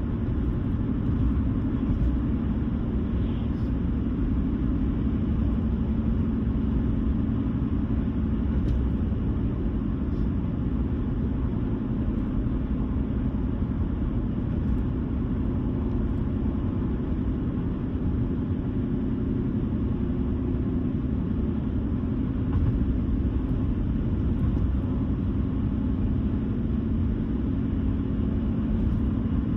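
Car cruising steadily on the road: a constant low rumble of engine and tyre road noise.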